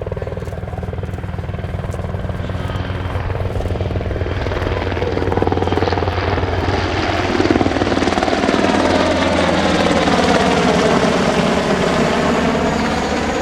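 SH-60K Seahawk helicopter's rotors and twin turboshaft engines running as it flies in close. The sound grows louder over the first half and takes on a sweeping, swirling shift in tone as the helicopter moves nearby.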